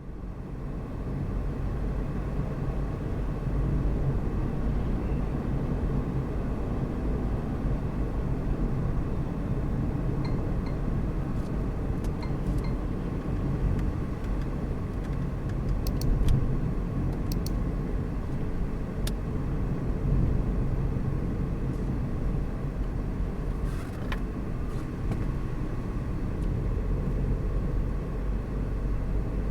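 A car driving at a steady pace: a continuous low rumble of road and engine noise, with a few faint ticks now and then.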